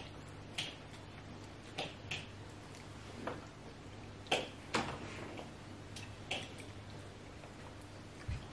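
Close-up eating sounds of pounded yam and soup eaten by hand: scattered short wet mouth smacks and clicks of chewing, roughly one every half second to a second, over a faint steady low hum.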